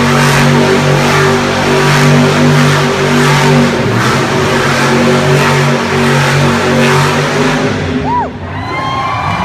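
Monster truck engine revving hard in repeated surges, then dropping off near the end, when a few thin gliding whistle-like tones are heard.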